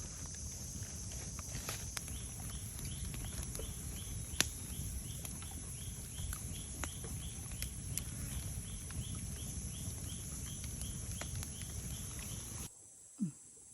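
A wood fire crackling with irregular sharp pops, over a steady high insect drone and a short chirp repeating about three times a second. The sound cuts off abruptly near the end.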